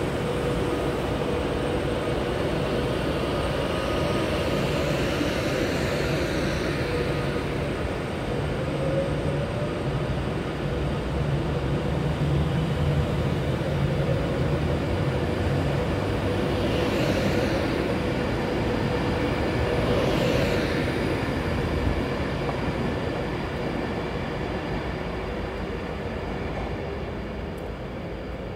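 A train running past with a steady rumble and hum, easing off slightly near the end.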